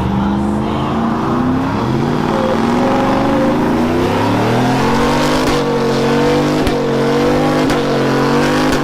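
Truck engine revving, climbing in pitch over the first few seconds and then held at high revs, with the rushing hiss of tires spinning in a burnout.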